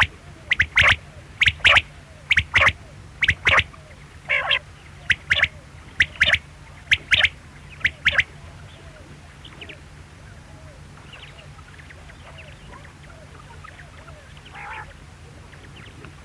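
Quail calling: loud, sharp calls in quick pairs, about one pair a second, then only faint scattered calls from about eight seconds in. A steady low hum runs underneath.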